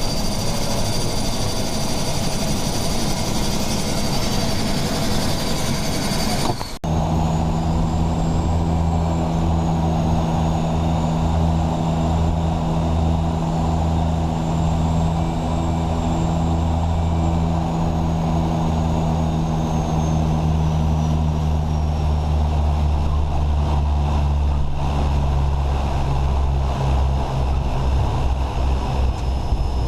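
Twin Otter's PT6A turboprop engines and propellers running at low power, a steady drone heard from inside the aircraft. About seven seconds in, the sound changes abruptly to a deeper, steady propeller hum, and a high whine slowly falls later on.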